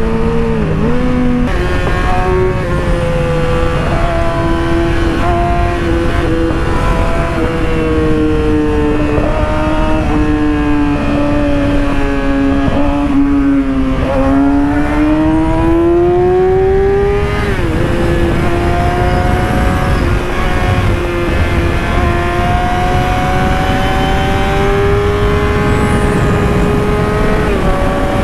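Yamaha YZF-R6's inline-four engine running at speed on the road, with a steady wind rush over the microphone. The engine note sags slowly, climbs toward the middle, drops abruptly, then climbs gradually again.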